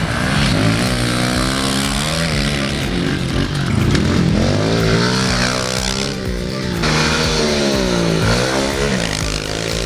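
Small 110cc four-stroke pit bike engines revving up and down again and again as they are ridden round a dirt track, the pitch climbing and dropping every second or so.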